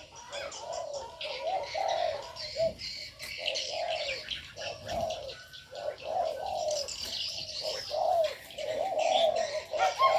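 Doves cooing over and over, with small birds chirping and twittering at a higher pitch.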